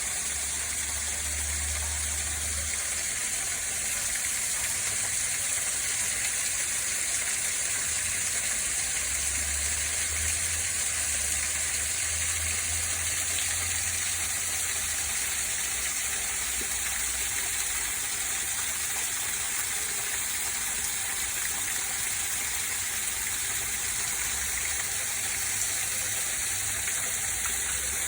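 Small park waterfall pouring steadily, a constant bright hiss of falling and splashing water. A low rumble comes and goes underneath, mostly in the first half.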